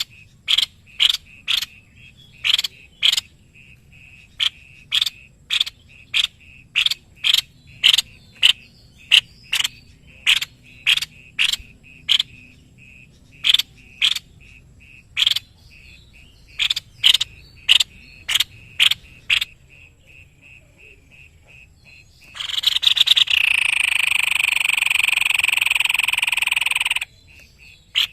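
White-bibbed babbler (tepus leher putih) calling: a long series of short, sharp notes repeated about one and a half times a second. About 22 seconds in, they give way to a harsh continuous rattle lasting about four and a half seconds.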